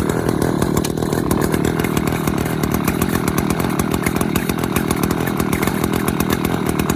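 Echo CS-590 two-stroke chainsaw engine idling steadily, with a fast, even firing beat.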